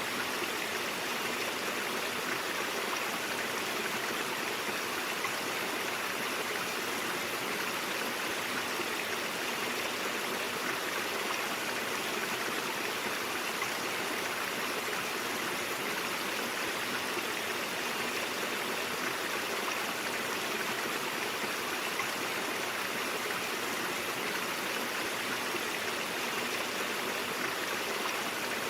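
Shallow stream water running steadily over rocks, a constant rushing and babbling with no breaks.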